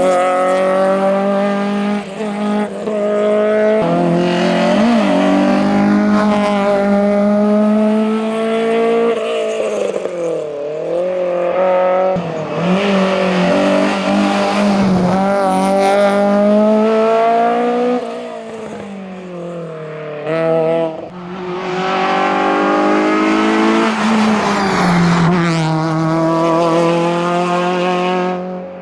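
Citroën Saxo VTS hillclimb car at full throttle, its 1.6-litre 16-valve four-cylinder revving hard up through the gears with short drops at each change. About three quarters of the way through it fades and a Renault Clio RS comes in, also accelerating hard through the gears.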